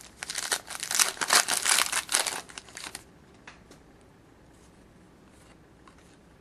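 Trading card pack wrapper being torn open and crinkled for about three seconds, then a few faint clicks as the cards are handled.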